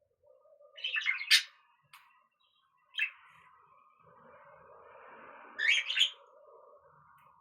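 Pet budgerigar chirping in short high bursts: a cluster about a second in, a single chirp near three seconds, and another cluster near six seconds.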